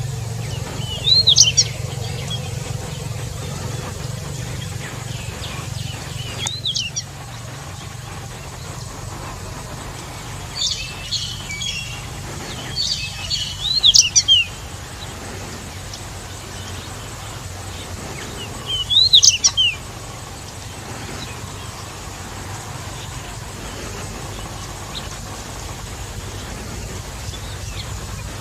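Pied bushchat singing: about five short, quick song phrases a few seconds apart, each a cluster of high rising-and-falling notes. A steady low hum runs underneath.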